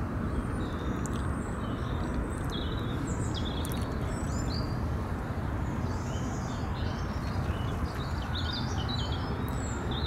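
Small birds chirping and singing, many short overlapping calls, over a steady low rumble.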